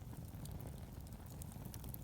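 Wood fire burning, with many small scattered crackles and pops over a low steady rumble.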